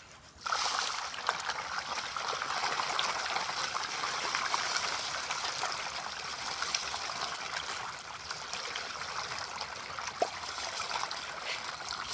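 Fish splashing and churning at the surface of a pond as they take feed: a dense crackle of many small splashes that starts suddenly about half a second in and keeps going.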